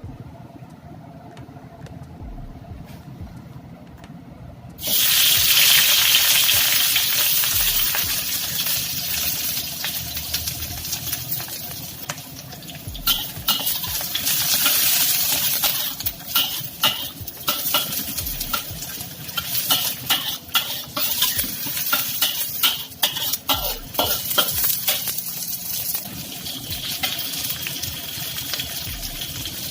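Ingredients go into hot oil about five seconds in and sizzle loudly. From about twelve seconds on, a spatula stirs and scrapes against the pan with many sharp clicks while the frying hiss carries on.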